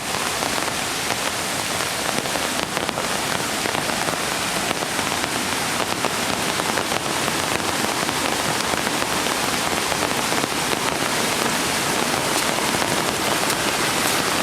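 Steady rain falling, with many small individual drop hits heard through the even hiss.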